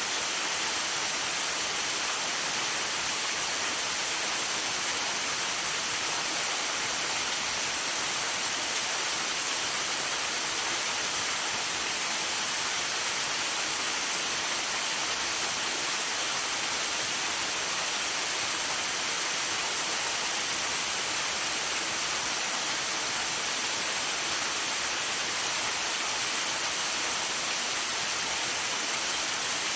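Waterfall rushing steadily in rain and sleet: a constant, even hiss, strongest in the high range, with no breaks or changes.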